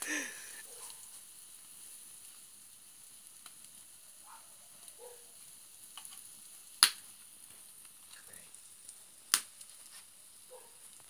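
Croutons frying over a wood campfire: a faint steady sizzle with small crackles, and two sharp, loud pops of burning wood about two and a half seconds apart.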